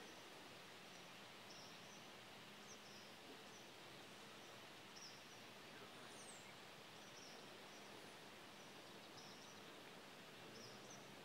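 Near silence: faint outdoor background hiss, with a small bird's short, high chirps repeating about once a second.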